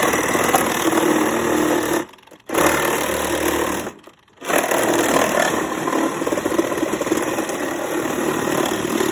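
Battery-powered saw with a wood blade cutting through an old dishwasher's metal and plastic insides. It runs steadily, stopping briefly twice, about two seconds and about four seconds in, before carrying on.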